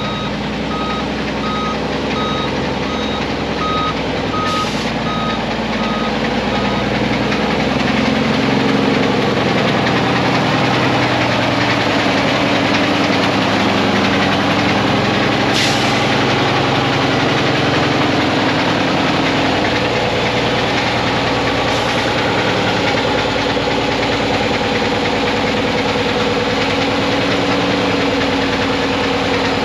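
Mack diesel engine of a 2006 Mack CV713 roll-off truck running steadily. Its reversing alarm beeps evenly for the first several seconds and then stops. The seller says this engine misses and smokes and has low oil pressure.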